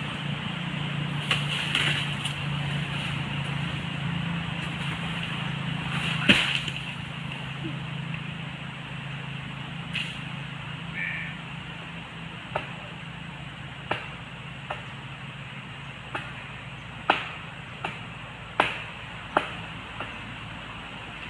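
A string of sharp knocks and cracks: one loud crack about six seconds in, then about ten shorter knocks at irregular intervals over the second half. Under them runs a low steady hum that fades away about halfway through.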